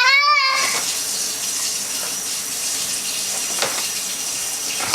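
Steady rush of running or spraying water, with a child's short high-pitched squeal at the very start.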